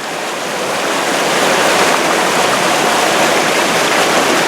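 Mountain river water rushing over rocks in a steady, loud rush that swells over the first second or two, then holds.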